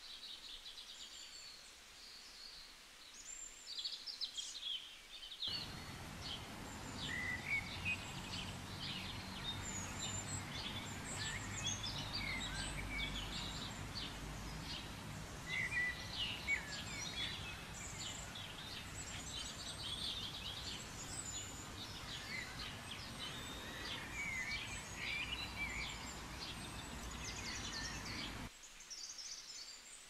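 Many small birds chirping and trilling over a steady outdoor background noise. About five seconds in the background grows fuller and lower, and it thins out again near the end.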